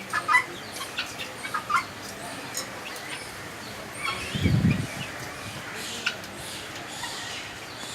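Birds calling with scattered short chirps, and one louder, low call about four and a half seconds in.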